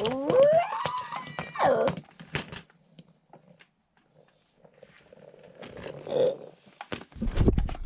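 A child's voice making drawn-out, swooping, unworded play noises, with sharp clicks of plastic toys being handled. The voice goes quiet for a couple of seconds in the middle, and a low rumble comes near the end.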